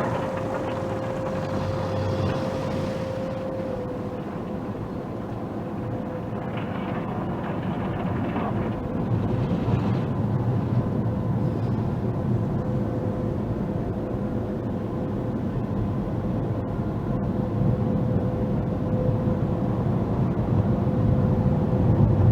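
Automatic car wash machinery heard from inside the car: a steady rushing noise with a constant high whine running under it.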